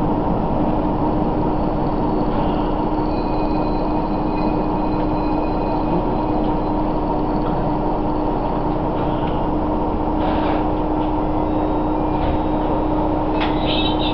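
Diesel railcar running, heard from inside the passenger cabin: steady engine and rolling noise with a constant drone. There are a few light clicks near the end.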